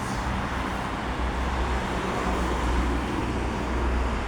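Steady rumble of road traffic, with no distinct events.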